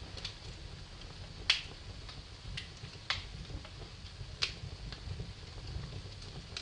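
Wood fire crackling in a fireplace: sharp pops and snaps over a low rumble, the loudest pop about a second and a half in and two more strong ones near three and four and a half seconds.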